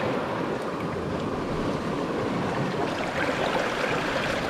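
Waves washing against a rocky shore, a steady rushing noise with wind buffeting the microphone.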